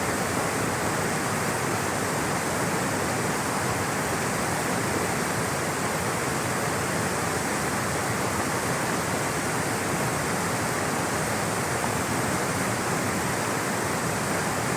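Water rushing steadily over rocks in a stream or small waterfall, a continuous even roar with no breaks.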